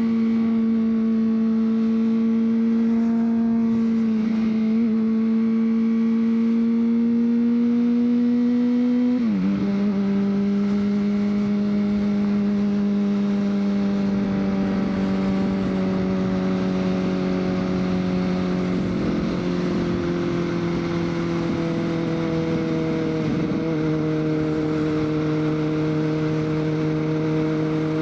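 2003 Honda CBR600RR's inline-four engine under way. Its note climbs slowly, then drops sharply a few times, clearest about nine seconds in and near the end, as the revs fall between gears.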